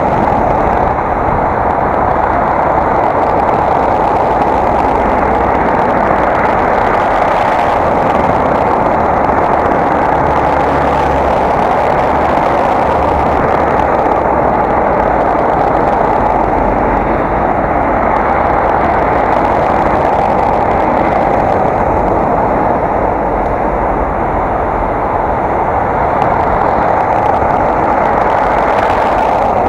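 Steady rushing wind and road noise on an action camera's microphone while riding a bicycle, loud and unbroken.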